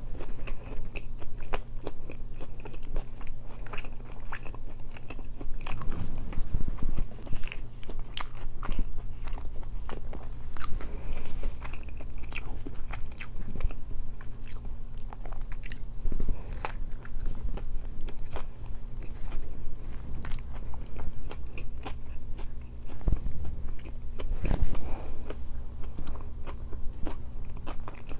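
Close-miked chewing and biting of a chicken wrap with flatbread, with many small wet mouth clicks. A steady low hum runs underneath.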